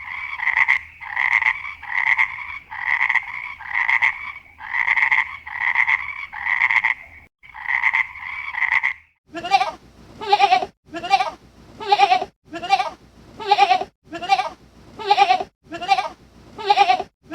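A frog croaking over and over, about one call a second, for roughly the first nine seconds. Then a goose honking, a little more than once a second.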